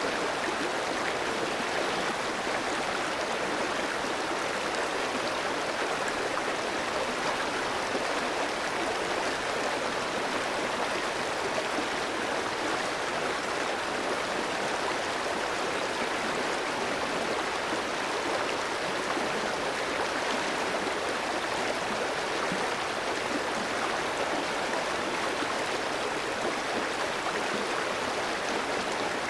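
Clear stream flowing over rocks: a steady, even rush of running water with a light gurgle.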